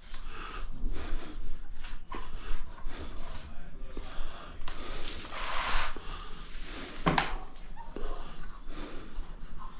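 Irregular rubbing and scraping of grout being worked across tiles, with a louder, longer scrape about five and a half seconds in and a single sharp knock a little after seven seconds.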